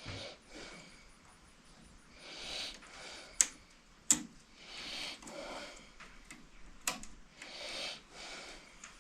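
A person breathing near the microphone, soft breaths about every two and a half seconds, with three sharp metallic clicks in the middle.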